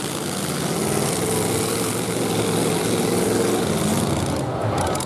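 Engines of derby trucks running hard in the arena: a dense, steady engine drone that grows a little louder about a second in.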